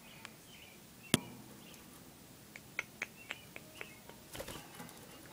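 Pet budgerigar in its cage giving a few faint, soft chirps, with one sharp click about a second in and a run of small clicks and ticks in the middle.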